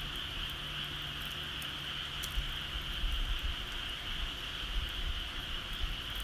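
Bonfire crackling with scattered sharp pops, over a steady high-pitched chorus of calling creatures and a low rumble.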